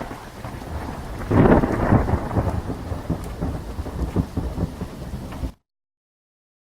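Thunderstorm sound effect: rain with a rumble of thunder that swells about a second and a half in and rolls on, cutting off abruptly after about five and a half seconds.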